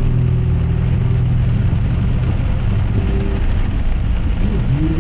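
Car driving in rain, heard from inside the cabin: a steady low engine hum over road noise. A radio voice starts near the end.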